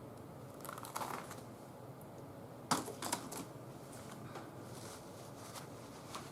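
Light handling of paper and craft tools on a table: scattered sharp clicks and taps, with a brief paper rustle about a second in and the loudest clicks near the middle.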